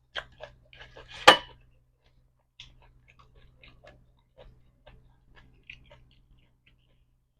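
Close-up mouth sounds of a person eating seafood papaya salad with fresh cockles and squid: chewing and small crunches heard as scattered soft clicks, with one sharper click about a second in.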